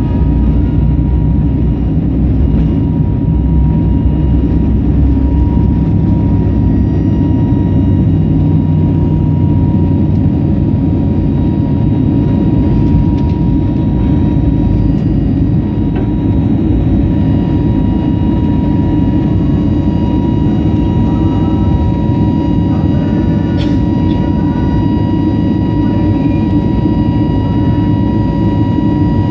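Steady cabin noise of a jet airliner in flight: a constant low rumble of engines and airflow, with a thin steady whine above it.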